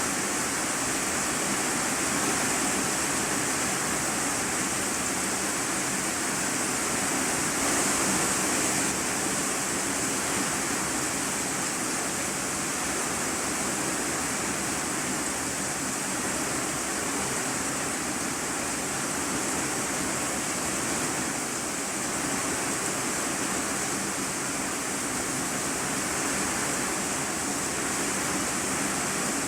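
Heavy rain drumming steadily on a corrugated iron-sheet roof, heard from the room beneath: a dense, even hiss without pause.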